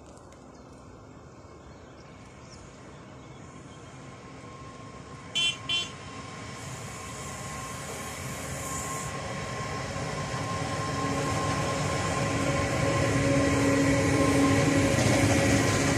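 Freight train hauled by two electric locomotives approaching and passing, its rumble growing steadily louder, with steady tonal hums from the locomotives. About five seconds in, two short high horn toots sound in quick succession.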